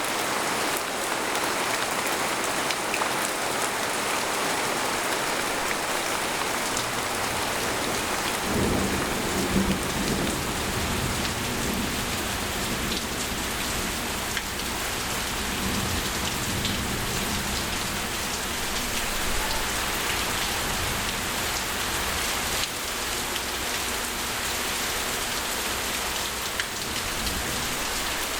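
Steady rain pattering on a tent, with a low roll of thunder starting about a third of the way in that rumbles on for several seconds before fading.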